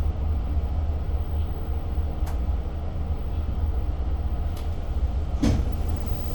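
Steady low rumble inside a Long Island Rail Road diesel passenger coach, with a few sharp clicks or knocks, the loudest about five and a half seconds in.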